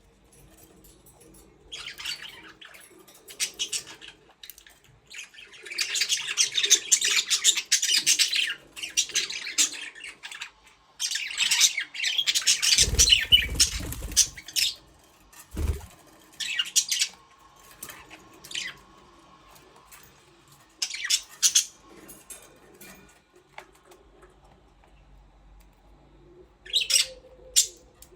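A flock of budgerigars chirping and chattering in bursts, some short and some running on for a second or two. A couple of brief low thumps come about halfway through.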